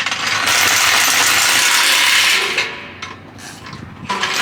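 Impact wrench hammering in a loud rattling run of about two and a half seconds, then starting again near the end.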